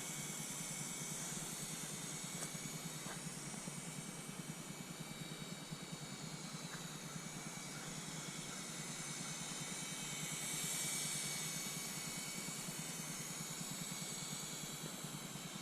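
Syma S107H-E mini RC helicopter in flight: small electric motors whining and rotors whirring, the pitch of the whine drifting up and down with throttle. It gets louder about ten to eleven seconds in.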